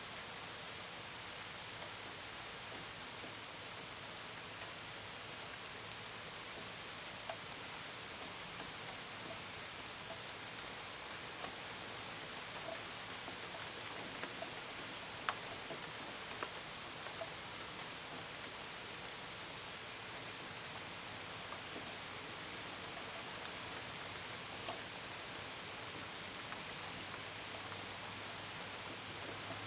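Steady gentle rain, with scattered sharp drips and taps of drops against a window and gutters, and crickets chirping in a steady pulsing trill behind it.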